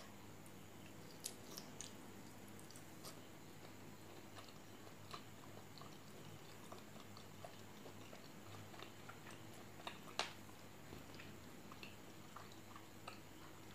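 Faint chewing and mouth smacks of a person eating rice and pork curry by hand. Soft, scattered clicks run through it, with one sharper click about ten seconds in.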